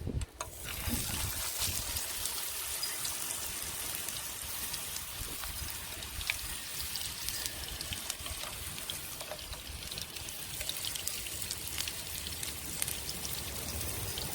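Kofta kebabs sizzling on a grill over a campfire: a steady hiss with fine crackles, starting about half a second in.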